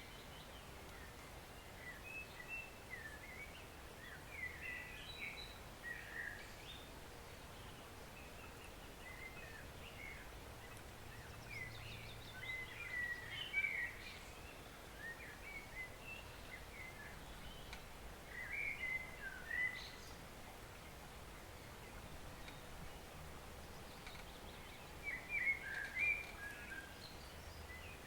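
Steady rush of a forest stream, with songbirds calling in scattered bursts of quick chirps and warbles, loudest around the middle and near the end.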